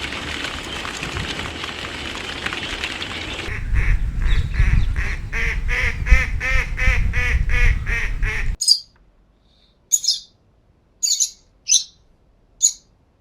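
Steady rushing noise for about three and a half seconds, then a duck quacking in a rapid, even run of about three quacks a second. It cuts off suddenly and is followed by five short, high chirps spaced through the quiet.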